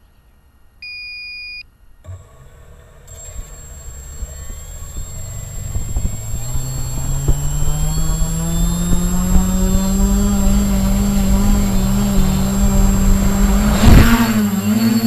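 Radio-controlled model helicopter spooling up: a short beep, then the rotor and motor sound rising slowly in pitch and getting louder before settling to a steady hum with a high whine above it. Near the end a loud brief whoosh, after which the rotor pitch wavers up and down as it flies.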